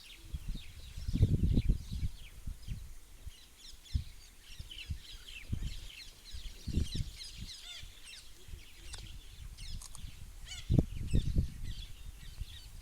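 Many birds chirping and calling together in quick overlapping notes, with a few short bursts of low rumbling noise, the strongest about a second in and near the end.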